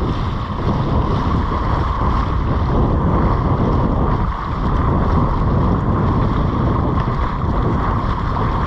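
Steady wind buffeting the microphone over the wash of surf on the beach.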